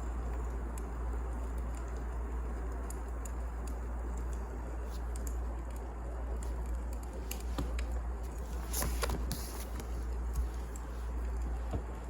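Wood fire burning with a steady low rumble and scattered small crackles and pops, and a denser burst of crackling about nine seconds in.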